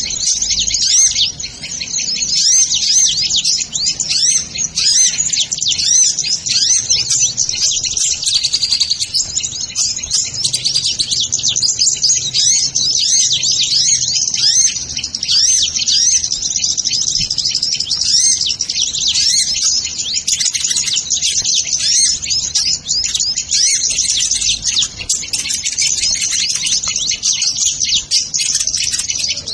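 Sunbirds ('kolibri ninja') chirping and twittering: a dense, unbroken chorus of rapid high-pitched chirps, the sound used to lure these birds.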